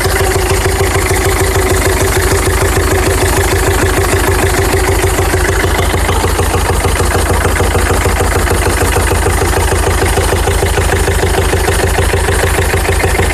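Citroën Xsara Picasso 2.0 HDi 90 four-cylinder turbodiesel idling steadily, with a loud noise from the air filter housing. A steady tone rides over the engine's even rhythm and is strongest for the first five seconds or so.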